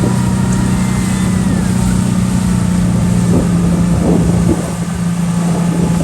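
Speedboat engine running at a steady drone while under way, with rushing air and water noise and wind on the microphone.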